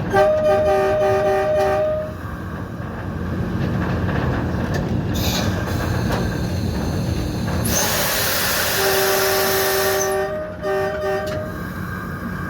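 Locomotive horn sounding two long blasts over the low rumble of the train, a warning to a cow on the track. A loud hiss, like air being released, begins shortly before the second blast.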